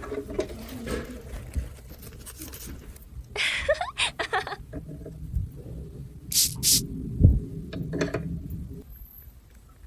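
Toy pieces being handled: scattered clicks, scrapes and rattles, with a run of scrapes about a third of the way in and sharp clicks and a knock past the middle.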